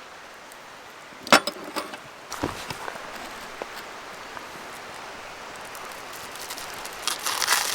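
A sharp metallic clink about a second in, over a steady crackling hiss, with a few softer knocks and then a cluster of clicks and rustles near the end: utensils against cookware at a campfire.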